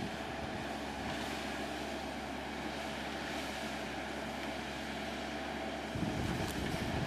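Machinery running steadily, an engine-like hum under a wide noise. About six seconds in, the low end becomes louder and rougher.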